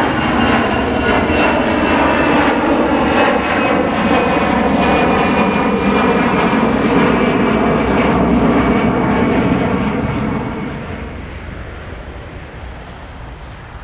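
Airliner's engines passing close by: loud engine noise with several tones that slide slightly down in pitch, dying away about ten and a half seconds in.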